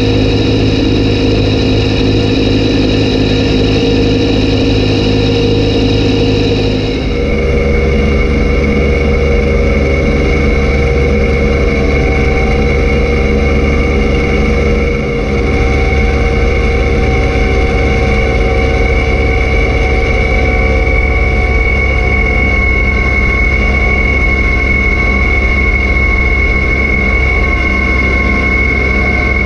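Kubota B2601 compact tractor's three-cylinder diesel engine running steadily, driving a B2782B front-mounted snowblower. About a quarter of the way in the engine note changes abruptly, and a steady high whine carries on after it.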